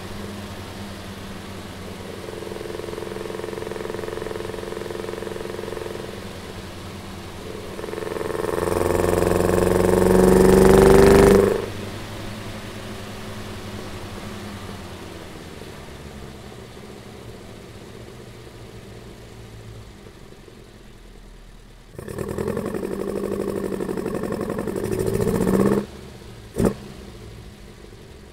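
Alfa Romeo Giulia 1300 TI's twin-cam four-cylinder engine, heard at its open intake trumpets, idling and being revved: a mild rise in revs early on, a long rev climbing in pitch about eight seconds in that drops back to idle, another rev around twenty-two seconds, and a short sharp blip near the end.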